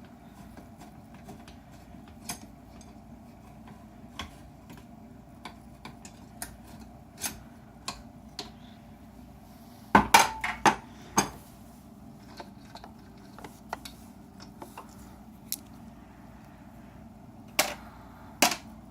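Hand-tool work on a car's A/C line fittings: scattered metallic clicks and clinks from a ratchet and socket, with a burst of loud clanks about ten seconds in and two more near the end.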